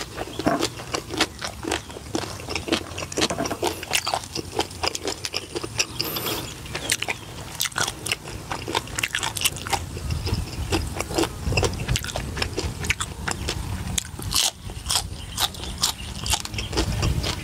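Close-miked eating: crunchy bites and chewing of crispy fried pork belly and raw water spinach stems, a quick run of sharp crackling clicks and wet mouth noises.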